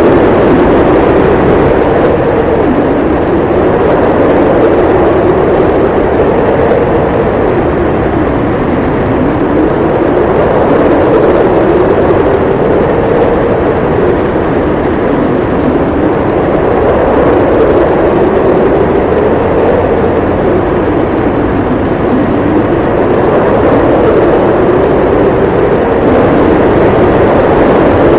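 Blizzard wind howling: a steady low rush with a howl that rises and falls slowly in pitch every few seconds.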